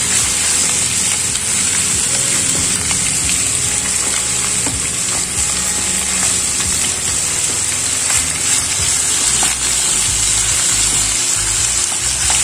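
Chicken thighs sizzling steadily as they pan-fry, with background music playing.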